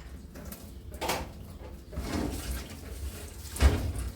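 A few knocks and bumps of things being handled, the loudest near the end, over a low rumble.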